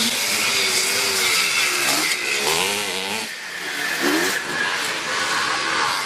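Several classic motocross motorcycles racing, their engines revving up and down with pitch rising and falling as they go past.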